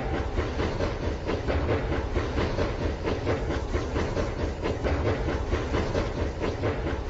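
Rail King toy train running on its plastic track: a steady small-motor rumble with a rapid, even clicking clatter from the wheels on the track joints.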